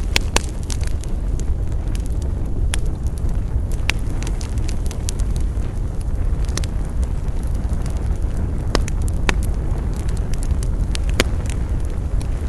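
Wood campfire burning with a steady low rumble and irregular sharp crackles and pops of the burning logs.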